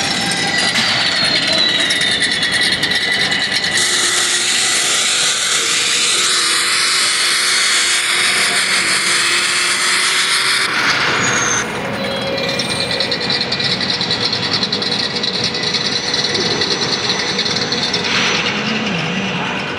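Drag race cars at full throttle: a loud, dense roar that shifts abruptly in character several times, with a faint falling whistle in the first few seconds.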